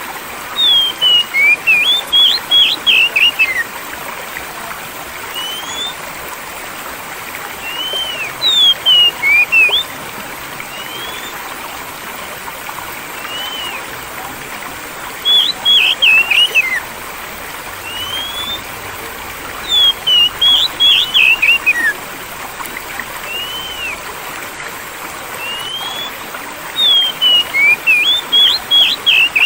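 Oriental magpie-robin (kacer) singing in five short phrases of quick whistled, slurred notes over the steady rush of flowing water.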